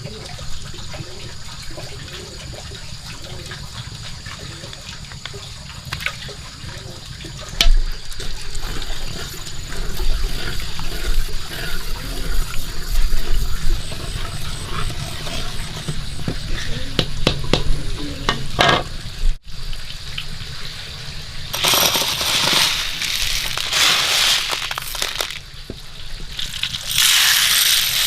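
Water splashing and running, with scattered clicks and knocks. Then two loud bursts of sizzling, about three-quarters through and again near the end, as food goes into hot fat in a pan.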